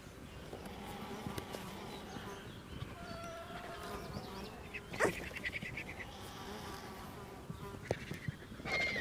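Flies buzzing, their pitch wavering as they move about, over outdoor ambience, with one short sharp sound about five seconds in.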